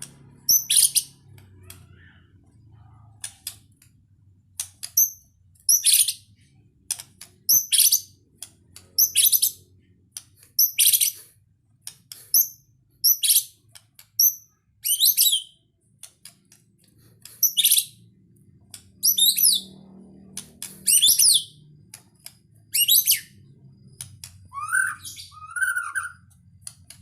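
White-rumped shama (murai batu) singing: short, high, rapid whistled phrases repeated about once a second, with two lower-pitched phrases near the end.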